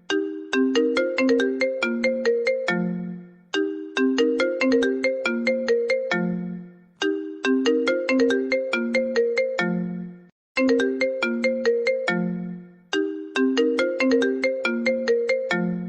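A phone ringtone: a short melody of bright notes that start sharply and fade, each phrase ending on a longer low note. The phrase loops about every three and a half seconds.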